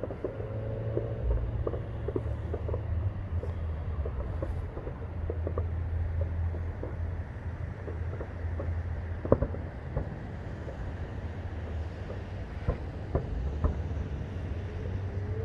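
A steady low rumble of wind on the microphone and distant traffic, with scattered faint pops and bangs from a distant fireworks show; the sharpest bang comes about nine seconds in.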